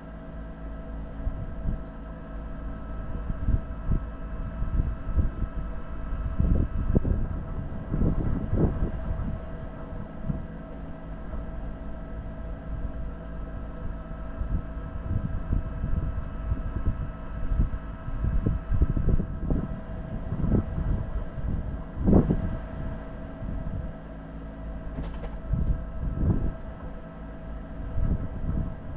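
4x4 vehicle driving over a rough off-road track: a steady engine drone with irregular low knocks and jolts from the bumps.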